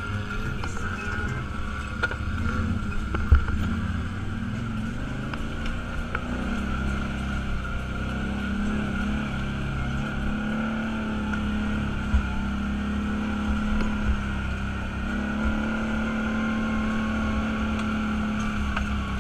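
Off-road vehicle's engine running steadily while driving, with a few sharp knocks, the loudest about three seconds in and another about twelve seconds in.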